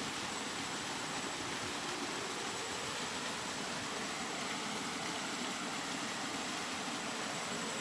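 Steady rain, an even hiss with no changes in level.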